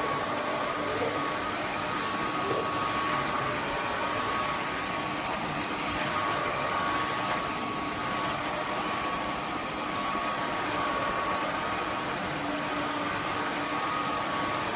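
Roborock F25 ACE wet/dry vacuum running steadily: a constant rush of air with a steady whine.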